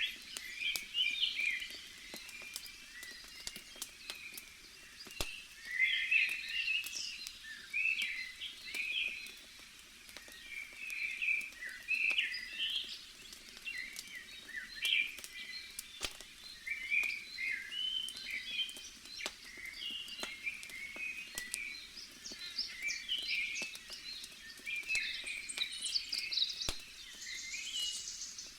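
Many small birds chirping and twittering without pause, over a faint hiss, with scattered sharp pops and crackles from a burning campfire.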